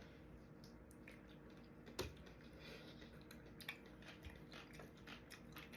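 Faint chewing and wet mouth clicks of someone eating rambutan with finger lime pulp, with one sharper click about two seconds in.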